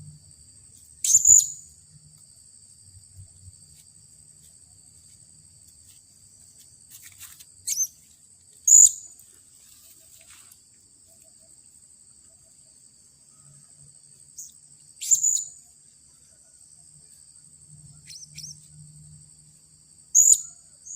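Blue-crowned hanging parrot giving short, sharp, very high-pitched calls, five in all with long gaps between them, over a steady high shrill drone of insects.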